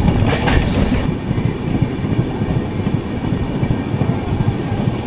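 Passenger train running, heard from inside a coach: a loud, steady rumble of the wheels on the rails, with a brief rush of hissing noise about half a second in.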